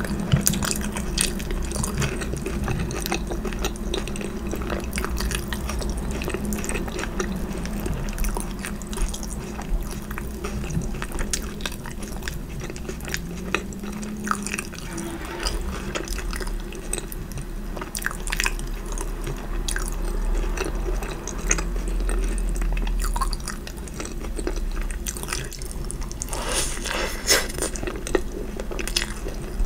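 Close-miked chewing and wet mouth sounds of someone eating, a continual run of sharp clicks and smacks, thickest near the end.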